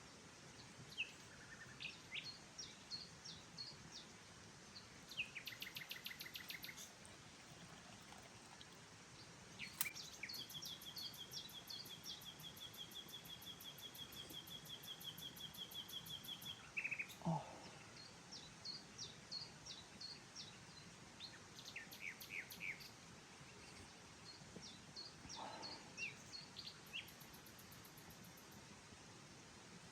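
Wild birds singing and calling: scattered chirps and short trills, with one long trill of rapidly repeated notes lasting about six seconds through the middle.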